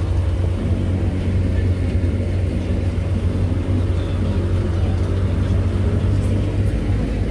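Steady low rumble of a train in motion, heard from aboard, with faint voices in the background.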